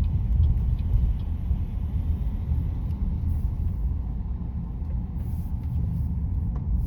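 A car driving along a city road: a steady low rumble of road and engine noise, with a faint regular ticking that dies away about a second in.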